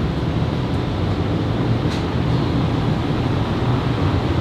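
Steady low mechanical drone, with a faint tick about two seconds in.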